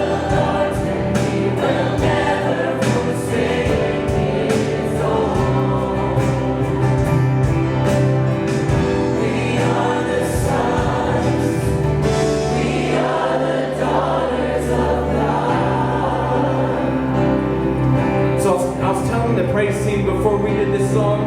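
Choir singing a gospel-style Christian worship song with instrumental accompaniment.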